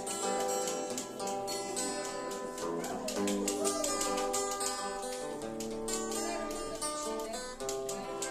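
Instrumental passage of a song: acoustic guitar playing plucked notes with other accompaniment, no singing.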